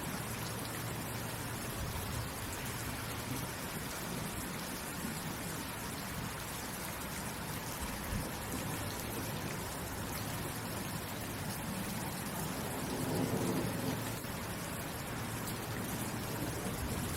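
Steady rain falling. There is a low rumble swelling about thirteen seconds in that lasts about a second and a half.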